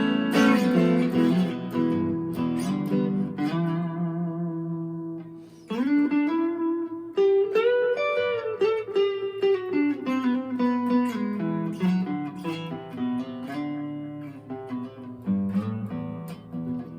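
Fender Player II Stratocaster electric guitar played on the neck pickup with reverb and delay: a chord strummed and left ringing, then from about six seconds in single-note lead lines with string bends.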